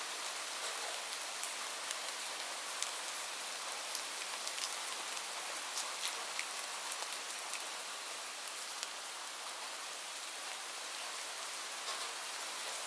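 Steady rainfall: an even hiss of rain with scattered, sharper drop ticks landing on a nearby surface.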